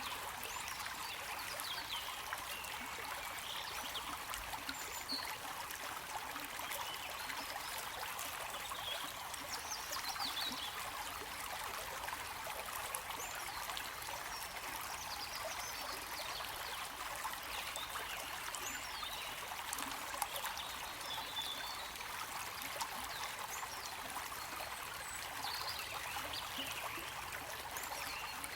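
Stream water flowing and trickling steadily, a running-water noise with small bubbling detail.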